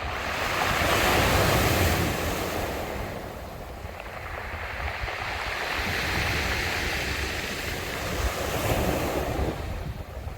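Sea waves washing onto a beach, the surf swelling and falling back in slow surges, the loudest in the first couple of seconds and others around the middle and near the end. A low wind rumble on the microphone runs underneath.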